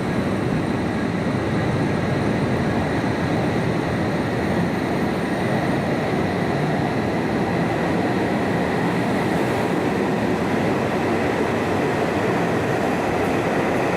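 E5 series Shinkansen train running on the line, a steady rumble with a thin, steady whine above it.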